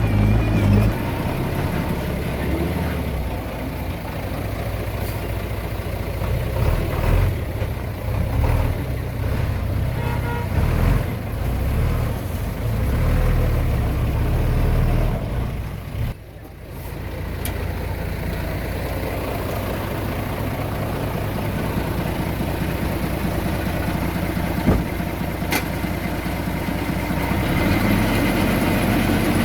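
Diesel engine of heavy earthmoving machinery running under varying load, rising and falling in strength, then running more steadily after a brief drop about midway.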